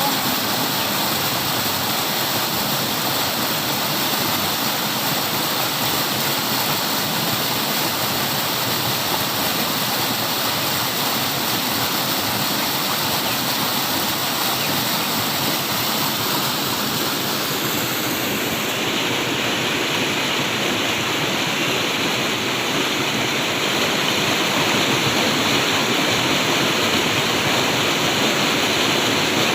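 Flowing water rushing steadily, like a stream or small waterfall; the rush turns a little brighter and hissier about two-thirds of the way through.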